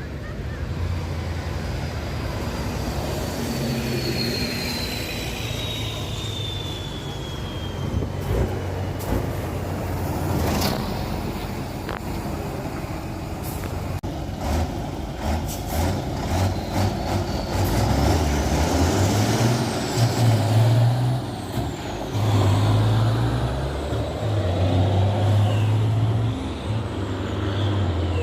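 Diesel truck tractor engines running and revving, with a high whistle falling in pitch over the first few seconds and the engine note surging up and down repeatedly in the second half.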